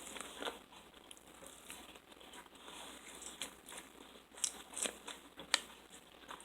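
A person eating, chewing and crunching food, with a few short sharp crunches or clicks, the loudest between about four and six seconds in.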